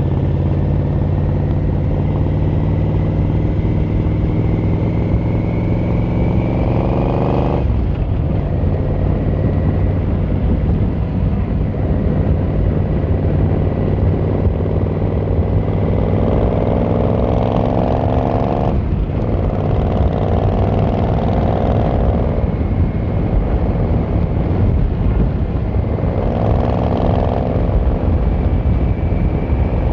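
Yamaha XVZ1300 Royal Star's V4 engine and exhaust under way, climbing in pitch as the bike accelerates and dropping sharply twice, about a quarter of the way in and again past halfway, as it shifts up. Near the end it climbs once more and then eases off, over steady road and wind noise.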